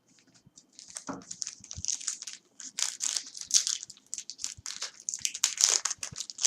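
Foil trading-card pack wrapper being crinkled and torn open by hand, a dense irregular crackling that builds from about a second in.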